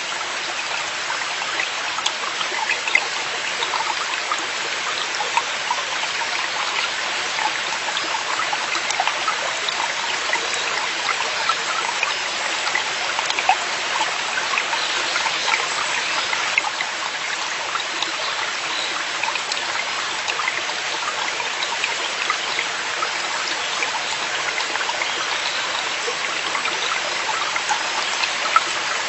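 Forest valley stream flowing steadily over rocks: a constant rush of water with many small trickling splashes and droplets running through it.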